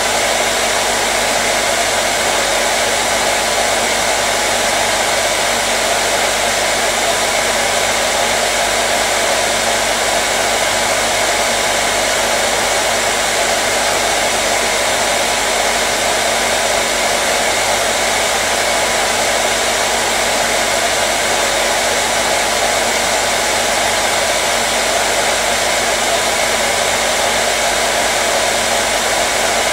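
Hair dryer running steadily, a constant rushing of blown air with a faint steady motor hum, unchanging throughout.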